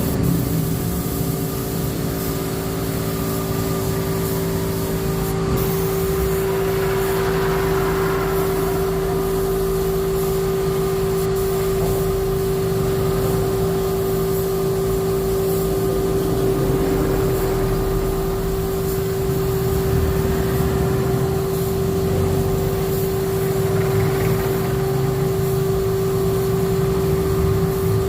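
A machine running steadily: a hum held at one pitch over a continuous low rumble, with no breaks.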